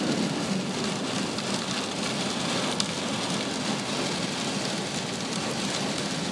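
Heavy rain pelting a moving car, heard from inside the cabin as a steady, dense hiss, with one sharper tick about three seconds in.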